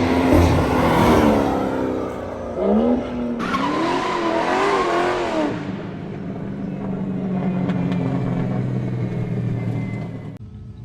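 BMW M340i's B58 turbocharged inline-six through an aftermarket downpipe and AWE Touring exhaust, revving: the pitch climbs and falls in several quick blips, then it settles into a steady drone that drops away near the end.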